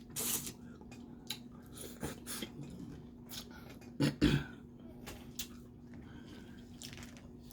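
Close-up eating sounds: crawfish shells being cracked and peeled, with sucking and chewing noises coming at irregular intervals. A louder throaty mouth sound comes about four seconds in, over a faint steady hum.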